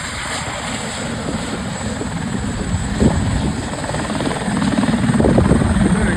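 Helicopter taking off, its rotor beating loudly with a rapid steady chop that swells a little after about four seconds in.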